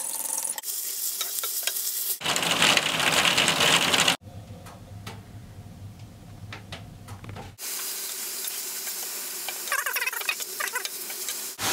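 Chopped mushrooms, bacon and onion frying and sizzling in a stainless pan while a wooden spatula stirs them. About four seconds in, the sizzle gives way to a quieter stretch with a few faint clicks, then the frying comes back.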